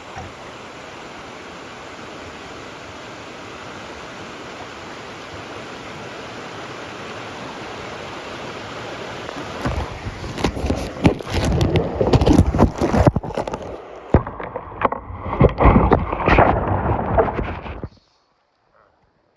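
Steady rushing of river water for about ten seconds, then a run of loud, irregular knocks and bursts of noise, heaviest in the bass. The sound cuts off abruptly near the end.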